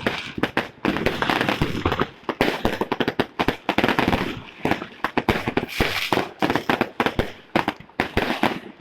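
Fireworks and firecrackers going off in a rapid, unbroken string of overlapping bangs and crackles, several a second.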